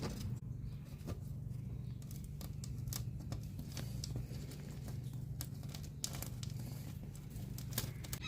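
Scattered scratchy scraping and clicks of a blade cutting and peeling rubbery modern caulk away from the glass of an old wooden window sash, over a steady low hum.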